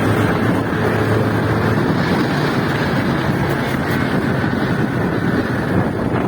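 Motorcycle engine running steadily while riding, mixed with heavy wind rushing over the microphone.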